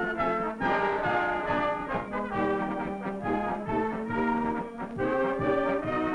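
Brass-led circus band music, with trumpets and trombones playing a lively tune over a full band.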